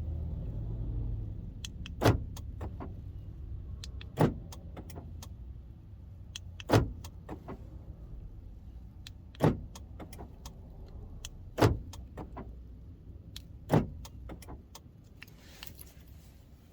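Honda Stepwgn power door lock actuators clunking as the locks are cycled, six sharp clicks each followed by a few smaller ones, about every two seconds, over a steady low hum.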